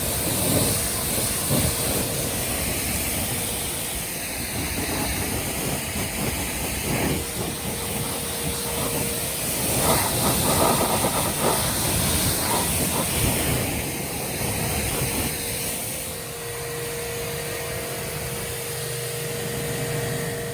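Electric pressure washer spraying, a steady loud hiss of the water jet with uneven splashing against a surface and a faint steady whine from the pump motor.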